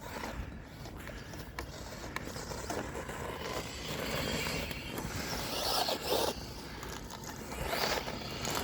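Electric Pro Moto RC motorbike driving over frozen ground: a scraping rush of tyres and motor that swells several times as the bike comes nearer.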